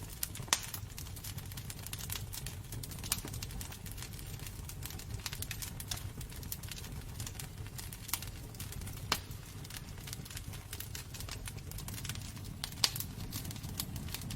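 Wood fire burning in a fireplace, crackling: irregular sharp pops and snaps over a steady low rumble of flame, with a few louder pops about half a second, three, nine and thirteen seconds in.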